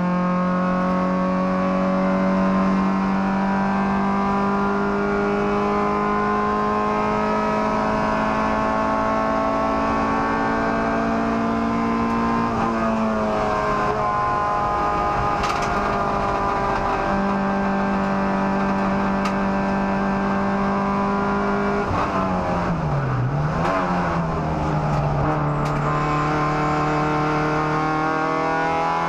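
Toyota Starlet race car's 1.3-litre 4E-FE four-cylinder engine heard from inside the stripped cabin, running hard with the revs climbing slowly under throttle. The pitch drops at a gear change a little past halfway, and a little over twenty seconds in the revs dip sharply and climb again.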